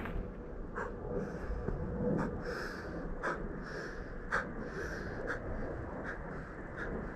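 Deep rhythmic breathing of Wim Hof power breathing: long hissing breaths about two seconds apart, over a low outdoor rumble, with scattered short sharp ticks.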